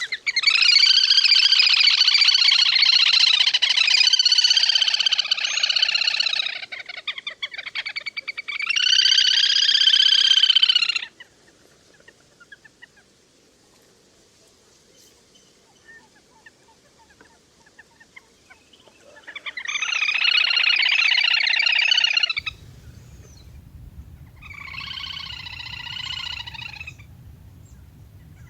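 Recorded calls of the le le hôi waterbird, used to call in a flock: loud trilling calls in four bursts, the first about six seconds long and the others shorter, with pauses between them. A low hum comes in about two-thirds of the way through, under a fainter last burst.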